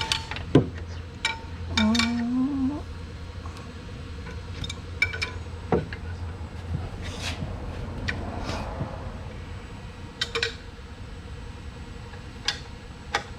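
Scattered light metallic clinks and taps, about a dozen at irregular intervals, as steel bolts and tools are handled, over a steady low shop hum.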